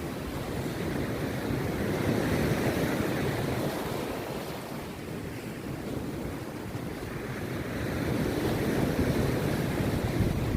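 Rough sea surf breaking on the beach, swelling twice as waves come in, with wind buffeting the microphone.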